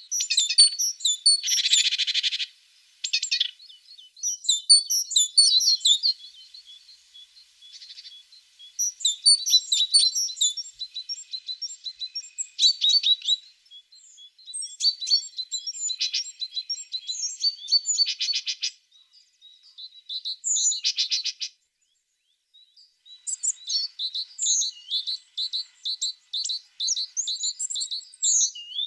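Tit singing and calling: phrases of high, quick chirps and fast trills, broken by short pauses, with a harsh buzzy churr about two seconds in.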